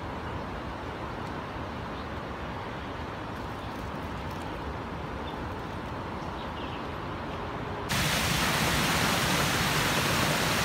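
Steady hiss of rain. About eight seconds in it jumps suddenly to a louder, brighter hiss.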